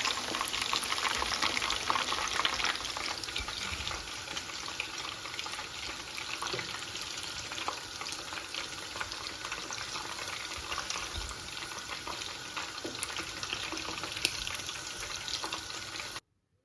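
Chicken pieces deep-frying in hot oil, a steady sizzle full of small crackles. It is loudest in the first few seconds and cuts off suddenly near the end.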